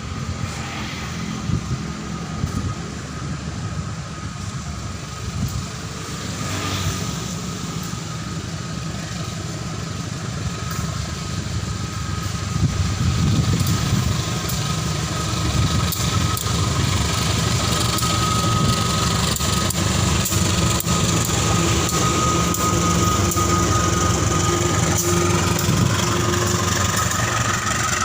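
An engine running steadily with a high, steady whine, getting louder about halfway through.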